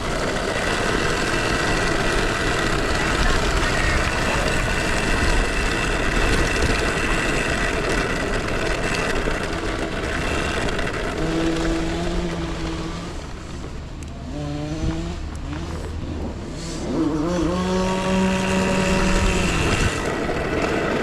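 Small off-road engines running over a steady noisy rush, with one engine revving up in rising pitch about two-thirds of the way through and holding a steady note near the end.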